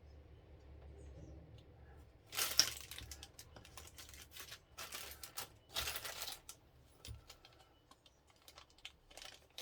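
Model-kit parts and their plastic packaging being handled: several short bursts of rustling and crinkling with light clicks, starting about two seconds in.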